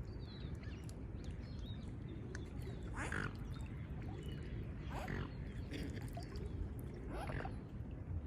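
Geese honking on the river: three loud calls about two seconds apart, each sweeping up and then falling, over a steady low rumble. Faint, short high chirps of small birds sound here and there.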